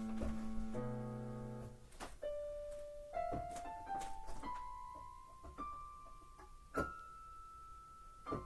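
Piano music: a held low chord for about two seconds, then single notes climbing step by step, each held before the next.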